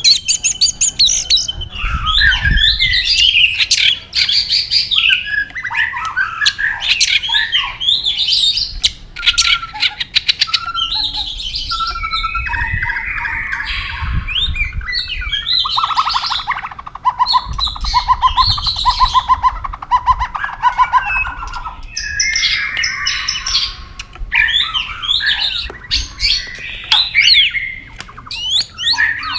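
White-rumped shama singing a varied song of clear whistles, rapid chattering phrases and harsh notes. About halfway through it gives a fast, buzzy rattling trill lasting several seconds.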